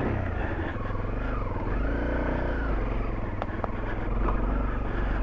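Honda CRF dual-sport motorcycle's single-cylinder engine running under load on a climb, its pitch rising and falling as the throttle is worked.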